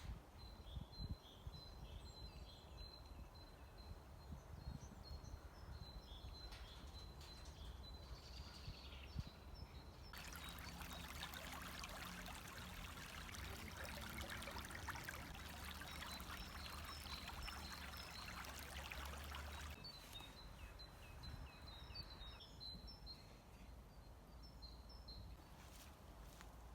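Small songbirds chirping in quick repeated notes, broken in the middle by about ten seconds of steady rushing running water that starts and stops abruptly.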